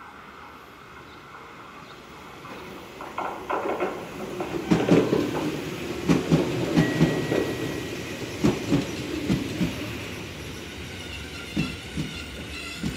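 JR Kyushu 811 series electric commuter train rolling past close by. Its rumble builds from about three seconds in, and its wheels clack over the rail joints in quick groups of clicks, with a brief thin high whine partway through.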